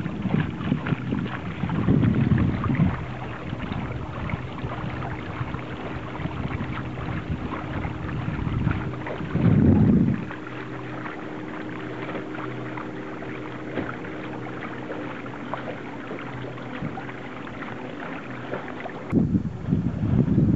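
Wind buffeting the microphone aboard a small sailboat, over a steady hiss of wind and water. Strong gusts come near the start and about nine to ten seconds in, with a faint steady hum underneath in between.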